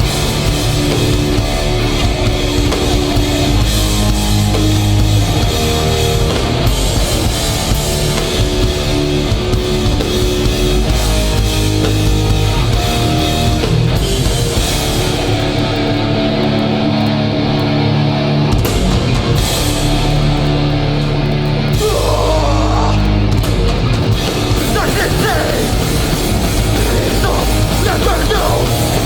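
Hardcore punk band playing live at full volume: distorted electric guitars holding heavy chords over bass and a pounding drum kit.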